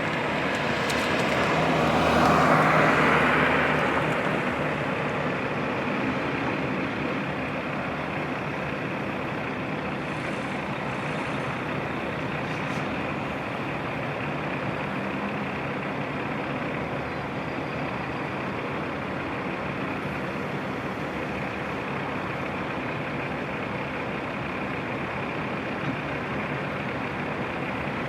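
Heavy truck engines running steadily, with a louder swell about two to three seconds in.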